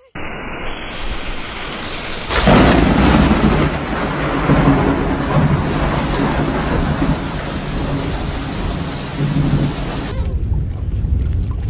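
Loud, steady rushing noise with a deep rumble, growing louder about two seconds in.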